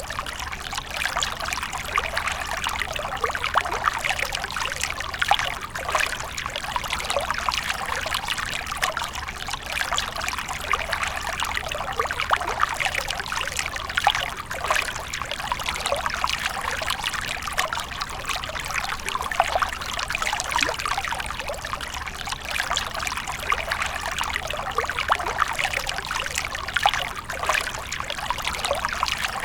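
Water falling and trickling in a fountain: a steady, continuous splashing with no pauses or changes.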